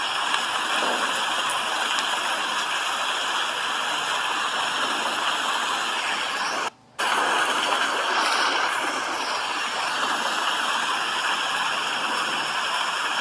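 Steady rain, an even hiss of falling water that cuts out for a split second about halfway through, then carries on as before.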